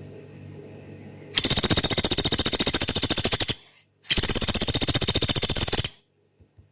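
Pelatuk beras, a small woodpecker, giving two long, rapid, harsh rattling calls, each about two seconds, with a short pause between.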